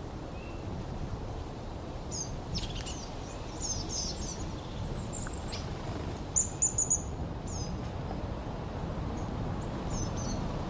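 Songbirds chirping and calling over the steady rush of a river. About six and a half seconds in, three sharp high chirps in quick succession are the loudest sounds.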